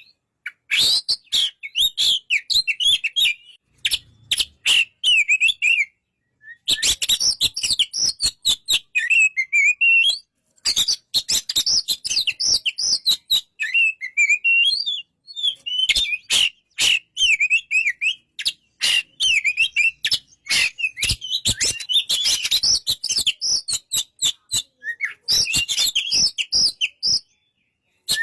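Oriental magpie-robin (kacer) singing: varied warbled and whistled phrases mixed with many sharp clicks, broken by a few short pauses.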